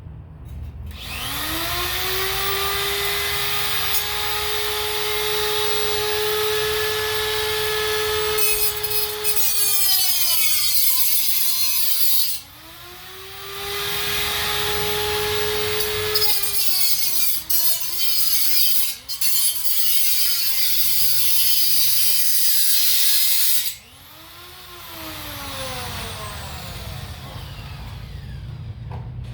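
Electric cutting wheel (angle grinder) on metal: the motor spins up to a steady whine, then drops in pitch as the disc bites into the steel with a harsh grinding hiss. It is switched off, restarted for a second long grind with a few quick on-off pulses, and given a last short spin that winds down.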